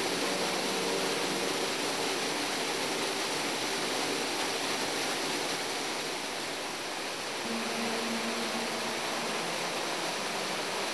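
Rushing river water, a steady, even rush, with soft background music faintly underneath.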